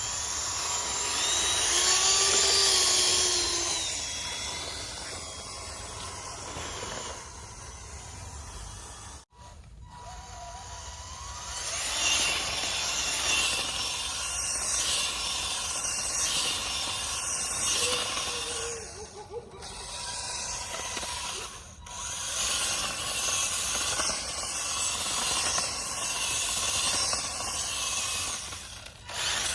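Small DC gear motor of a homemade model tractor running with a steady whir, the footage broken by several abrupt cuts.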